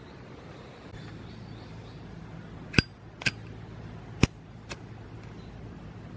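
Four sharp clinks of hard objects knocked together, the first two ringing briefly, over a steady low hum.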